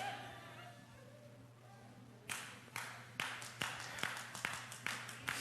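Faint congregation voices reacting, then scattered, irregular hand claps from a few people, starting about two seconds in, a couple of claps a second.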